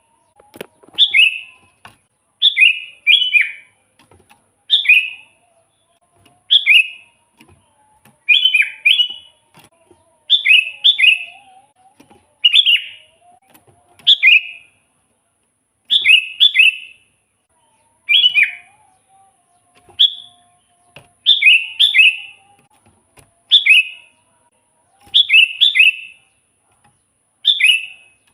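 Sooty-headed bulbul singing over and over: short phrases of two or three quick, bright notes, one phrase about every one and a half to two seconds.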